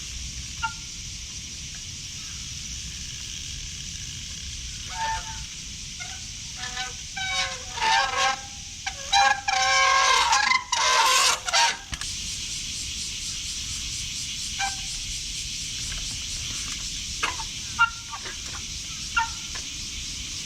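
Wet rim brakes on a trials bike squealing and honking in short bursts as the rider grabs and releases them, thickest between about 5 and 12 seconds in, over a steady hiss.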